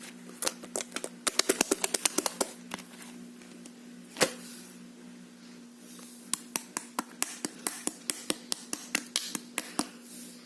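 Thick, rice-cake-textured slime being pressed and squeezed by hand, giving sharp sticky clicks and pops: a quick run of them, a single louder pop about four seconds in, then a steadier series of about three a second. A faint steady hum runs underneath.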